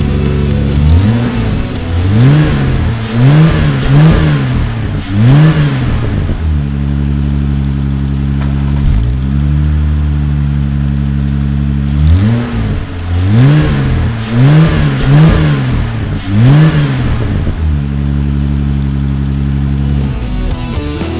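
Jeep Gladiator's V6 idling through an MBRP 2.5-inch cat-back exhaust with an off-road single rear exit. It is blipped in two sets of about five quick revs, each rising and falling, with steady idle between the sets.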